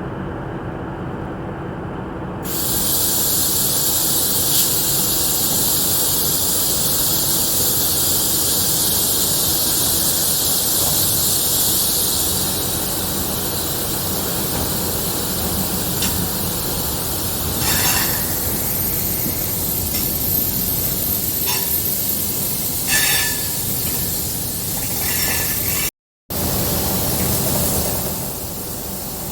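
Ride noise of a diesel-electric multiple unit train on the move: a steady rumble with a loud, high-pitched hiss that sets in a couple of seconds in, a few short rattles later on, and a brief total dropout near the end.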